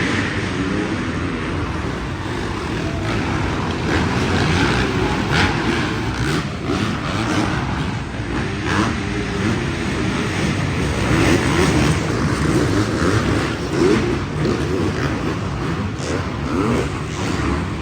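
Dirt bike engines revving on a motocross track, their pitch rising and falling repeatedly as the bikes accelerate and back off, most clearly in the second half.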